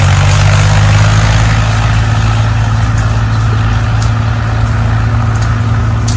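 Diesel tractor engine running steadily with a low, even drone, with a few faint clicks near the end.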